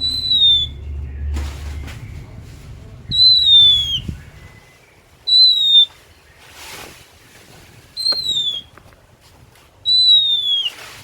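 Oriental magpie-robin (kacer) singing: five long, clear whistles, each falling slightly in pitch, spaced two to three seconds apart. A low hum underlies the first few seconds.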